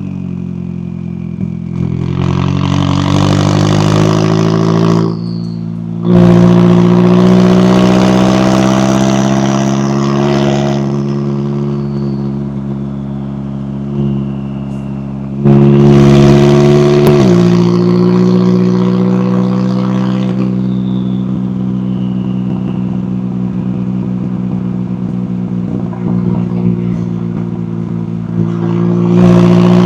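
McLaren 570S twin-turbo V8 exhaust under hard throttle. There are three loud pulls, starting about 2, 6 and 15 seconds in, each lasting a few seconds before the driver lifts off. After the third pull the pitch drops sharply, the engine runs more quietly, and it swells again near the end.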